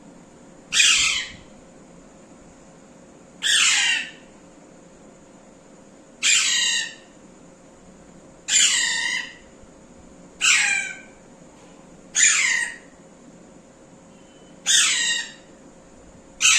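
Pet parrot squawking over and over: short, loud, harsh calls about every two seconds.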